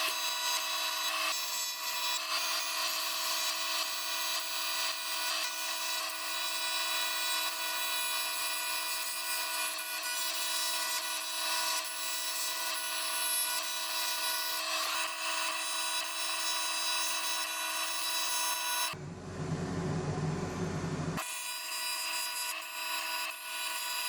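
Welding arc buzzing steadily while a blank is welded onto the spark-plug well of an aluminium Nissan VK50VE cylinder head, closing off the cracked plug-thread area and the water jacket. About 19 seconds in the buzz gives way for a couple of seconds to a lower, rougher sound, then resumes.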